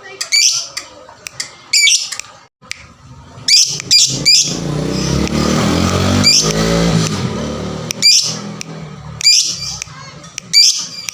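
Lovebird giving short, sharp, high-pitched calls every second or two. In the middle comes a louder, rough stretch lasting about three seconds.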